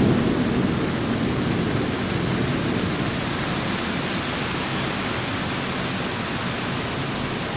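Steady rushing noise of heavy rain in a thunderstorm, slowly fading.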